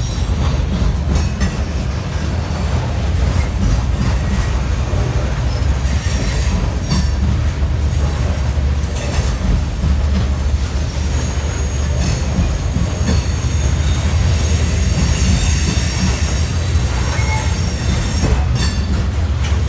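Freight train rolling past with a steady low rumble, its wheels squealing high and thin on the rails midway through, with a few sharp clicks of wheels over rail joints.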